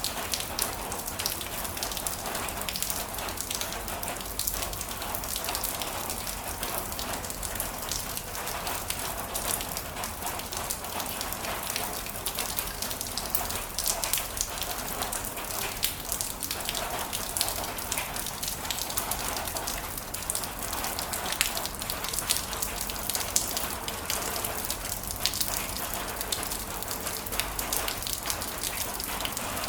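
Heavy rain falling steadily, a dense hiss of rain on a surface with many individual drops spattering through it.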